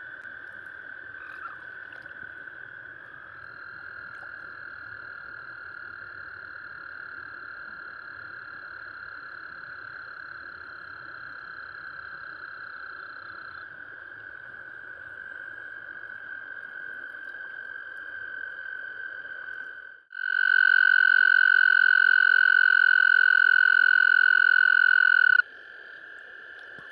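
Dense spring mating chorus of frogs, spring peepers among them, a steady high ringing of many overlapping calls. About twenty seconds in the chorus becomes much louder for about five seconds, then drops back to its earlier level.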